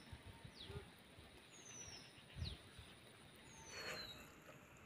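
Faint, high bird calls: short falling notes repeating about once a second over a quiet rural background. Near the end there is a brief soft scrape of food being mixed by hand in a steel tin.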